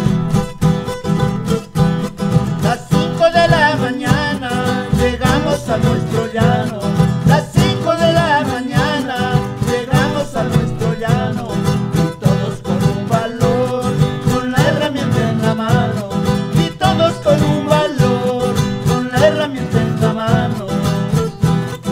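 Traditional Andean string-band music: acoustic guitars strummed in a steady, quick rhythm, with a wavering melody line coming in about three seconds in.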